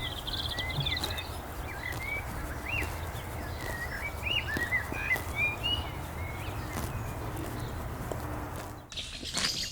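Pasture ambience: a steady background hiss with small birds chirping and twittering. The background changes abruptly about nine seconds in.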